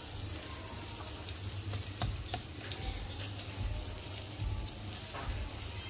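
Stuffed paratha frying in oil on a flat tawa, its second side cooking just after the flip: a steady sizzle with scattered small crackles of bubbling oil.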